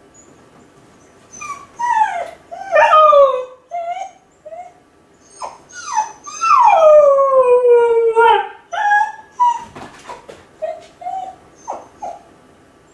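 Kai Ken dog howling and whining while left home alone, a lonely separation cry. A few short falling cries come first, then one long howl sliding down in pitch about halfway through, followed by short whimpering yelps.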